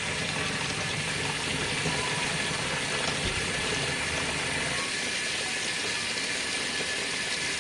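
Tap water running steadily, set warm for the washing machine's rinse fill.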